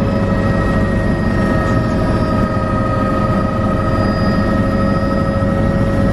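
Helicopter running steadily: fast rotor chop under a constant turbine whine made of several high steady tones.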